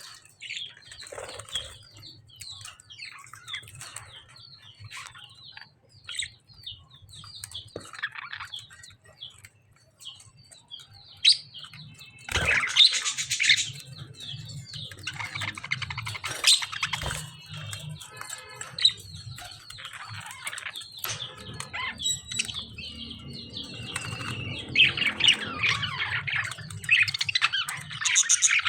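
Lovebirds and budgerigars chirping rapidly, with several louder harsh squawks.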